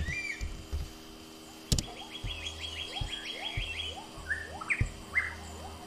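Forest ambience of birds chirping and calling: short rising calls, a quick run of about ten high notes around the middle, and a sharp click about two seconds in.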